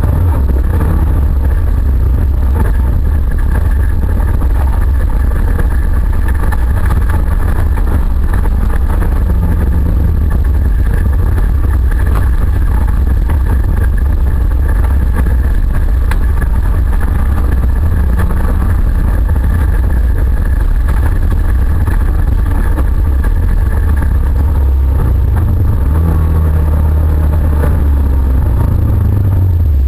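Autocross race car's engine running hard, heard from inside the stripped cabin as a loud, heavy low rumble; the revs rise and fall, most clearly near the end.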